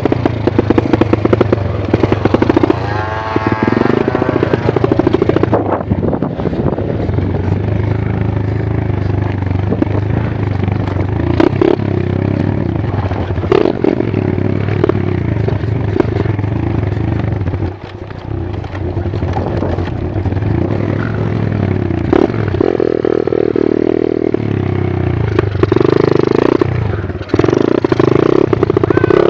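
125 cc pit bike engine revving hard under load on a steep dirt climb, its pitch rising and falling with the throttle. There are louder revving surges near the end, with some clattering and scraping.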